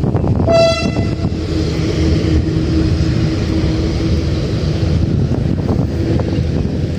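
Diesel train passing: a steady low rumble and engine hum, with one short high toot of its horn about half a second in.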